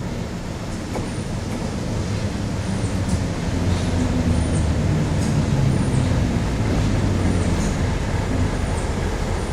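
Diesel locomotive engine rumbling as the train pulls in slowly, growing louder as it comes alongside and easing slightly near the end.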